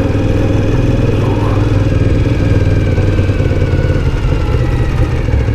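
Motorcycle engine running steadily at low road speed, heard from the rider's helmet.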